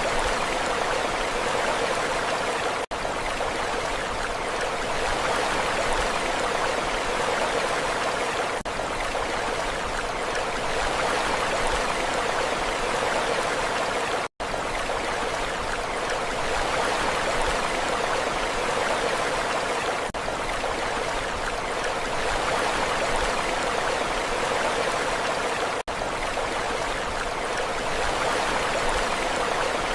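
Steady rushing water, an even wash of noise with no distinct wave breaks, that drops out for an instant three times.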